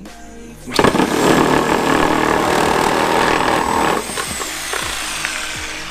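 Power cutting tool running hard for about three seconds, cutting through a metal part, then its high whine falls in pitch as it spins down.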